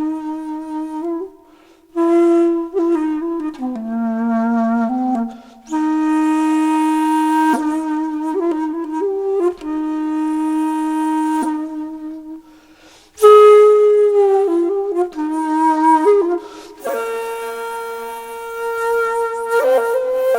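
Solo flute music: a slow melody of long held notes that slide between pitches, with brief breathing pauses between phrases.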